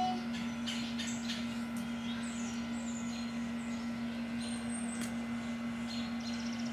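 Small birds chirping: short high calls, several gliding down in pitch, and a quick trill near the end, over a steady low hum.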